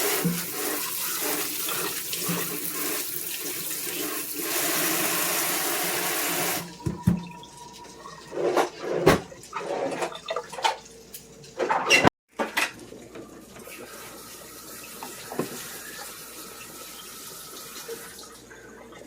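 Kitchen tap running into the sink as raw chicken is rinsed under it, shut off about six and a half seconds in. After that, scattered knocks and clatter over a faint steady hum.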